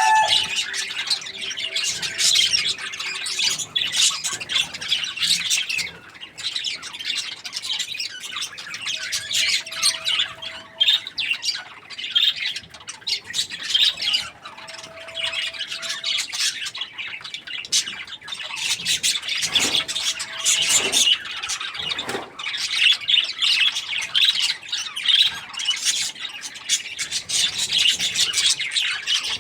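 Budgies chirping and chattering continuously, a dense run of quick high chirps and squawks.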